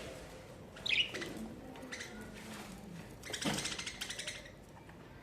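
Pet budgerigars: a short chirp about a second in, then a brief flurry of wing flapping a little after three seconds.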